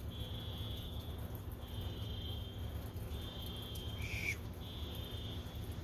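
A high chirping tone from a car, repeating steadily about every second and a half over a low, steady rumble, with a short squeak about four seconds in.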